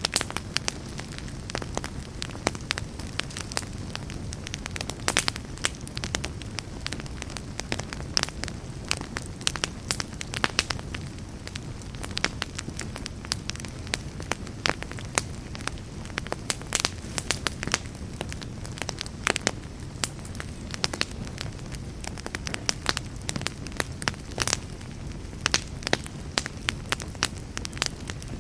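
Campfire burning: a steady low rush of flame with frequent sharp crackles and pops, several a second.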